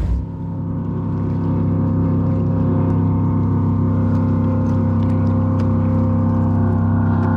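Jet boat engine running at a steady pitch, its level building over the first second or two and then holding.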